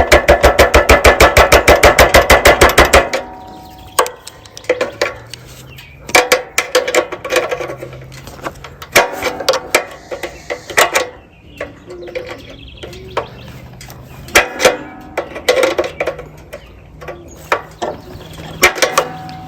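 Metal tool work on a minibike's throttle stop flange, which is being bent over for more throttle travel. It opens with about three seconds of fast, even, loud metal strikes. Irregular taps, clinks and knocks of tools on metal follow for the rest of the time.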